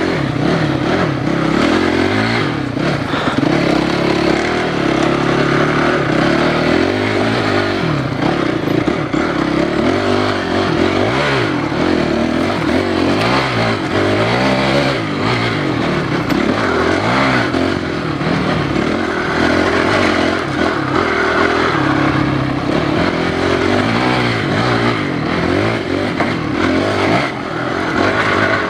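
Enduro dirt bike engine revving up and down again and again while ridden, with scattered knocks and clatter.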